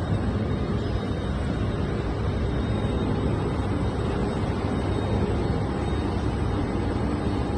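Steady low rumble of wind noise without a break.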